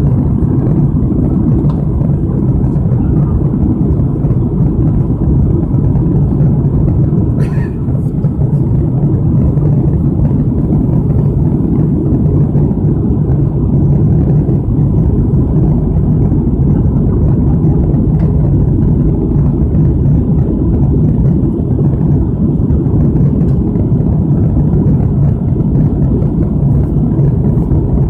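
Steady, loud jet engine and airflow noise heard inside the passenger cabin of a Lockheed TriStar airliner, a deep even rumble with a low hum and no change in pitch.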